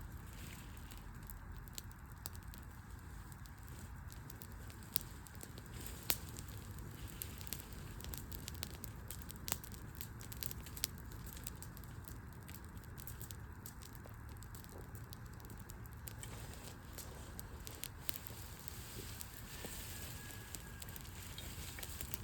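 Wood fire burning, with scattered sharp crackles and pops over a steady low rumble; a few louder pops stand out.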